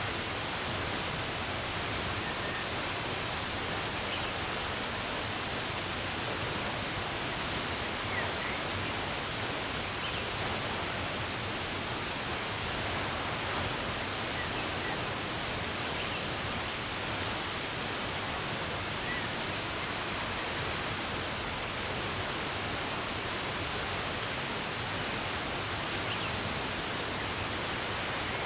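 Steady rush of running water, with a few faint short bird chirps scattered through it.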